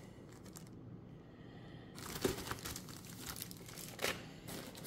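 Cardboard and plastic packaging rustling and crinkling as it is handled, starting about two seconds in, with two sharper crackles, one just after it starts and one near the end.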